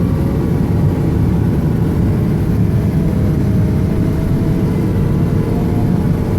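Snowplow truck's engine running steadily with a low, even rumble while it drives through snow-covered roads.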